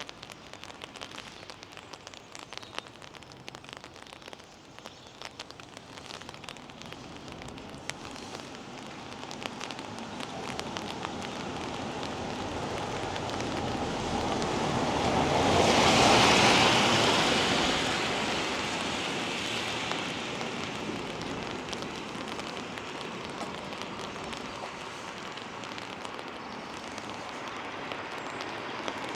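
Rain pattering, with scattered drip ticks. About halfway through, a vehicle passes on the wet road: its tyre hiss swells over several seconds and then fades away.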